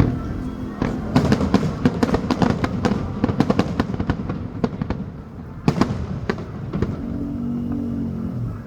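Fireworks going off in a fast run of sharp cracks and pops, followed a little past halfway by a couple of louder reports.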